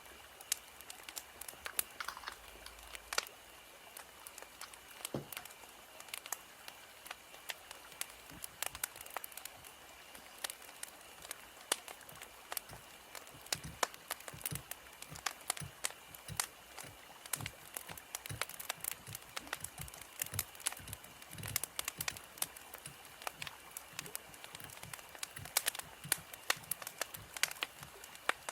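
Wood fire crackling, with irregular pops and snaps over a soft hiss; the snaps come thicker in the second half.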